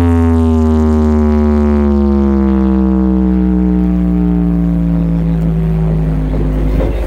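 Carnival sound system with twelve subwoofers playing a long, slowly falling synth tone over a steady deep bass drone. The tone ends just before the close, giving way to busier music.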